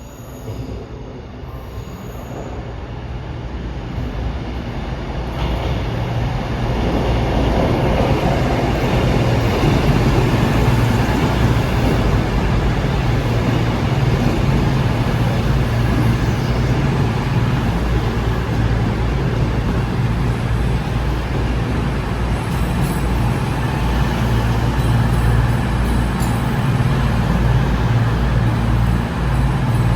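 Passenger train arriving at the platform, growing louder over the first several seconds, then a loud, steady low hum of the train's motors and wheels as it runs in.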